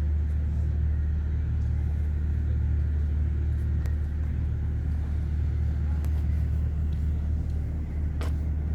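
Steady low engine drone and rumble of a moving vehicle, heard from on board, with a faint click about eight seconds in.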